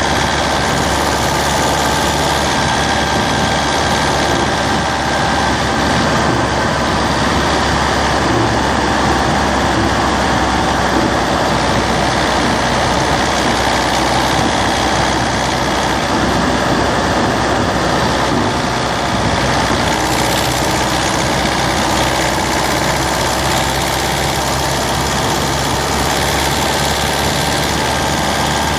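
Citroën C3's 1.4 HDi DV4TD four-cylinder turbodiesel running steadily, heard close up at the engine.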